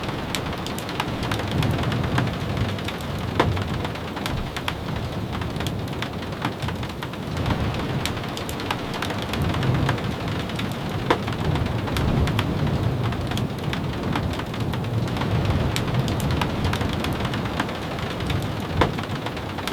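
Steady rain, with many scattered sharp pops and taps and a low rumble that swells and fades every few seconds.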